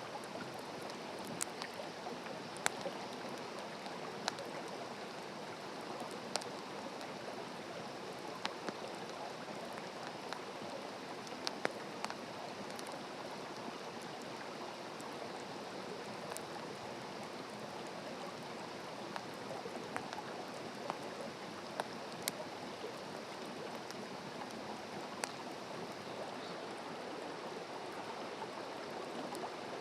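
Wood campfire crackling: a steady hiss with sharp pops at irregular moments, a dozen or so over the stretch.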